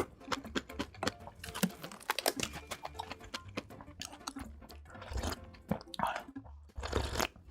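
A person chewing rice and egg soup close to the microphone: a quick, irregular run of mouth clicks and smacks, with louder bites about five and seven seconds in.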